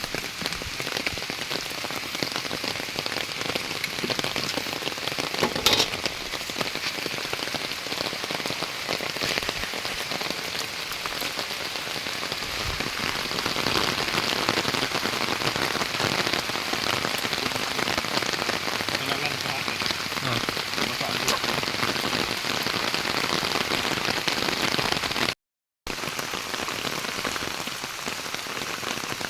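Heavy rain falling steadily, with a single sharp knock about six seconds in. The sound cuts out for a moment near the end.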